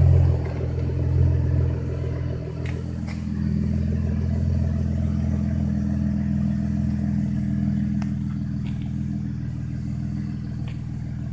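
A 2014 Camaro's 3.6-litre V6 idles after a cold start, sounding through a resonated X-pipe with the mufflers deleted. The exhaust note changes about two and a half seconds in, then settles into a steady idle.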